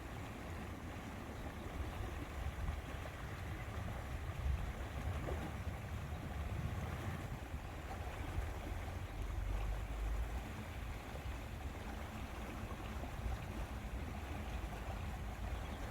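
Wind and small waves lapping at a lakeshore, a steady noise with a strong low rumble.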